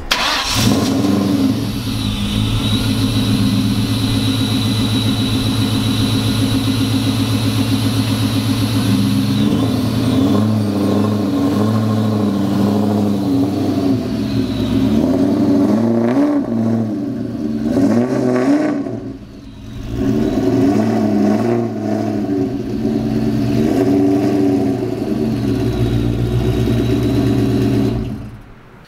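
2003 Mustang Cobra's supercharged 4.6-litre V8 running at idle, then its revs rise and fall as the car pulls away, with a short dip about two-thirds of the way through before it fades out near the end.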